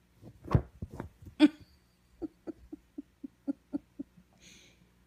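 Orange domestic cat making a run of short, low calls, about four a second, after a few louder sounds near the start, with a brief hissing noise near the end.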